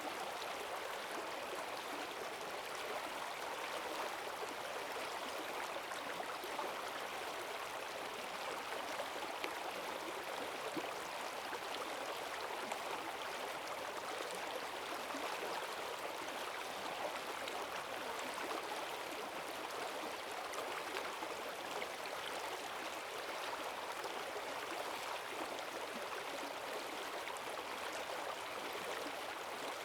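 A forest stream running fast and full after heavy rain, its strong current rushing and splashing in a steady, even noise.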